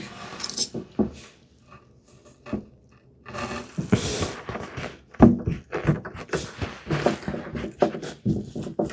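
Irregular light knocks, taps and scrapes of a brass hinge and a cherry lid being handled and held in position for screwing, with a short scraping hiss midway and busier tapping in the second half.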